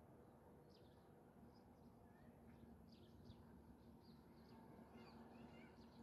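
Very faint birdsong over near silence: scattered short chirps, then a run of quick repeated high notes from about two-thirds of the way in.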